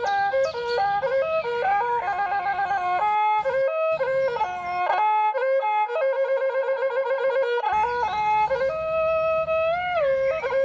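Traditional Khmer instrumental music: a solo wind instrument plays a slow melody with fast trilled passages and sliding notes, over a faint low accompaniment.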